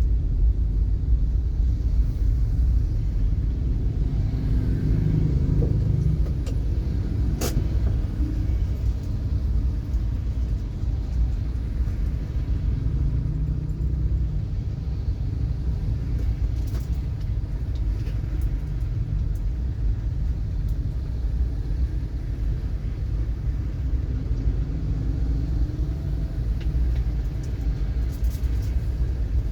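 Steady low rumble of a car on the road in traffic, with one sharp click about seven and a half seconds in.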